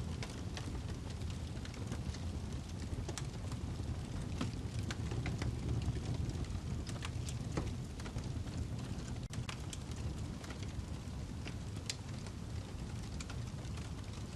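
Wood fire burning in a fireplace: irregular sharp crackles and pops from the burning log over a steady low rumble of the flames.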